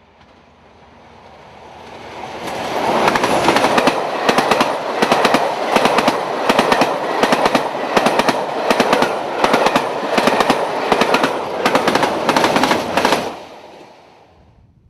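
A train passing at speed, its wheels clattering in a regular rhythm over the rail joints. It builds up over the first few seconds and dies away quickly about 13 seconds in.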